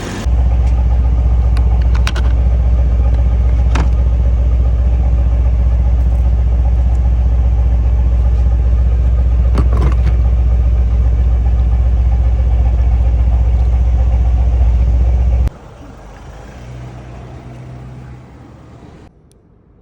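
Mercedes-AMG M177 4.0-litre twin-turbo V8 running at a steady idle, a deep low drone, after its ignition coils and spark plugs have been replaced to cure a misfire. The drone comes in suddenly louder at the start and drops away sharply about three quarters of the way through.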